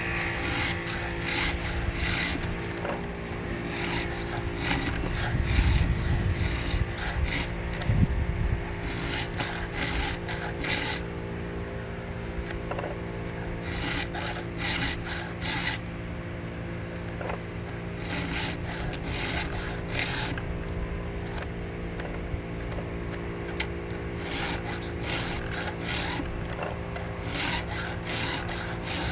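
Hand file stroking across chainsaw chain cutters, a few quick rasping swipes per tooth in short groups with brief pauses as it moves from tooth to tooth. The file runs smooth, the sign of teeth that need only a touch-up.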